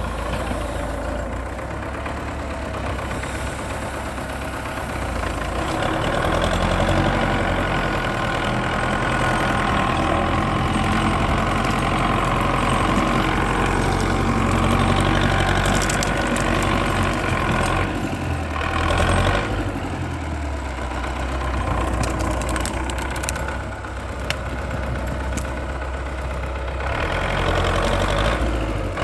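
MTZ (Belarus) tractor's diesel engine running steadily, working harder about six seconds in and easing off briefly twice later.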